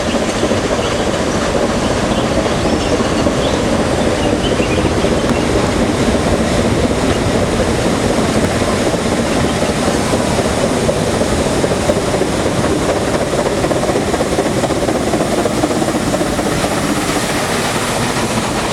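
Nilgiri Mountain Railway train running, a steady, loud rumble and rattle from wheels and rolling stock on the rails.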